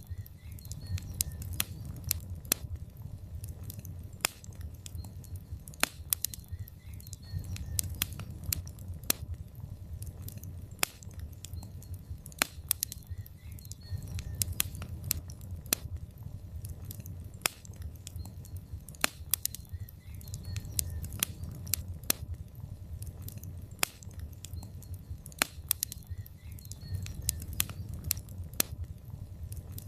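Wood logs burning in a fireplace: irregular sharp crackles and pops, several a second, over a low, steady rumble of the flames.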